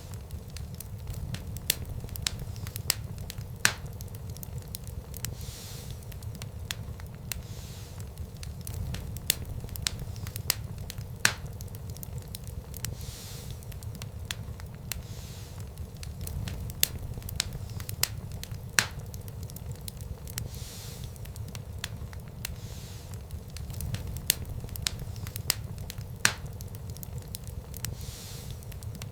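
Wood fire burning in a fireplace: a steady low rumble of flames with frequent sharp crackles and a handful of louder pops.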